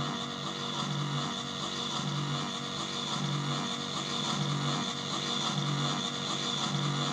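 Improvised electronic noise music run through distortion, delay and reverb pedals: a dense, steady drone of held tones with a low note pulsing about once a second.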